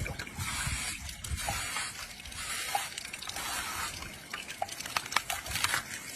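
Juicy fruit being cut with a knife: wet, uneven sounds with many small clicks.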